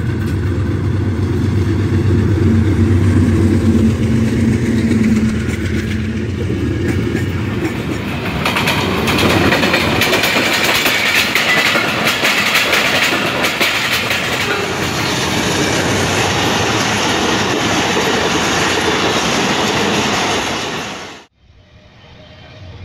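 A diesel-electric locomotive passes close by with a deep engine rumble. Then passenger coaches roll past, their wheels clattering over the rail joints in a fast, continuous knocking. The sound cuts off suddenly near the end, leaving a much fainter background.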